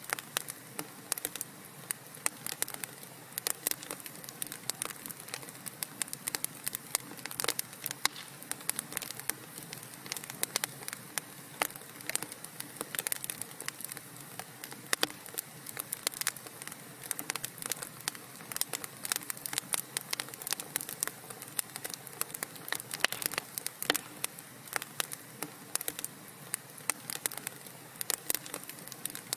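Wood fire crackling and popping in a fireplace: many sharp irregular snaps, several a second, over a soft steady hiss.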